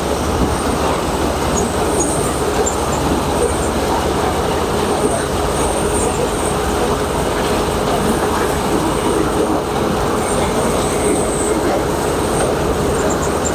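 Combine harvester running steadily at work, a continuous loud mechanical noise of engine and threshing machinery with a faint steady whine.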